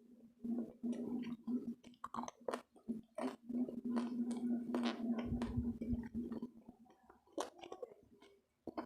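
Close-miked chewing of food, with crunchy bites and wet mouth clicks, over a steady low hum that stops about six and a half seconds in.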